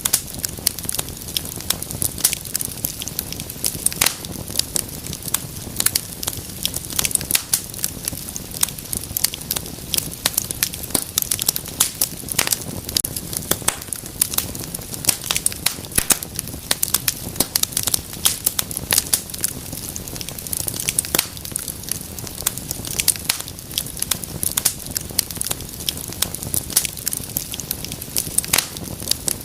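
Wood fire burning in a fireplace, with dense, irregular crackles and pops over a low steady rumble of flame.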